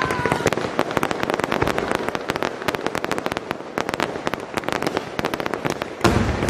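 Fireworks going off in a dense, rapid stream of sharp crackling pops, with a heavier, deeper boom near the end.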